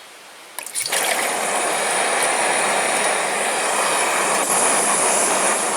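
Portable camping gas stove burner lit and burning with a loud, steady hiss that starts abruptly just under a second in, heating water for a brew.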